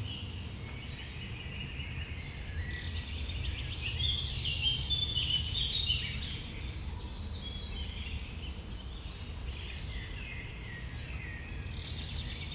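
Several songbirds singing at once, a mixed chorus of overlapping phrases, busiest for a couple of seconds early on and then in short phrases about every second and a half. A steady low rumble runs underneath.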